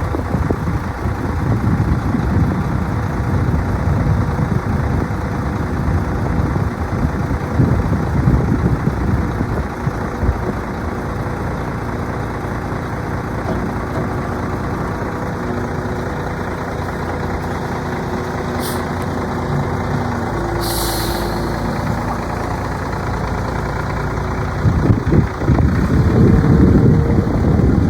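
2007 Mack Granite tandem-axle dump truck's diesel engine running steadily, with a short hiss of air from the air brakes about three-quarters of the way through. The engine grows louder and rougher near the end.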